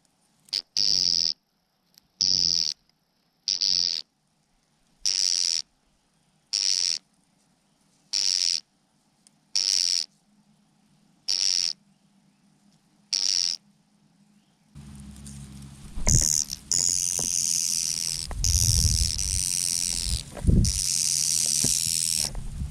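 Mynah birds calling: one harsh, screechy call repeated about every one and a half seconds, about ten times. From about fifteen seconds in, several birds screech at once over low scuffling thumps.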